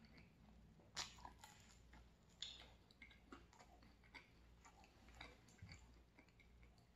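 Faint chewing of pizza, heard close: soft mouth clicks and smacks, the loudest about a second in and again about two and a half seconds in.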